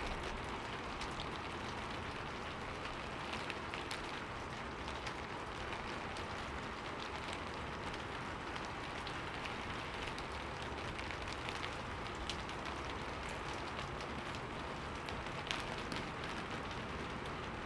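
Steady rain falling on a window pane: an even hiss with scattered individual drop taps, one sharper tap about fifteen seconds in.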